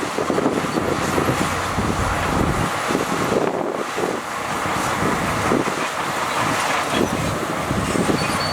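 Heavy diesel earthmoving machinery running under load, a steady engine drone with irregular clanking and rattling.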